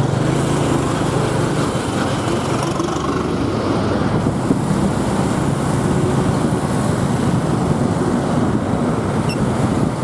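Motorbike ride through city traffic: the bike's engine running under a steady rush of wind and road noise, with a held engine note in the first few seconds.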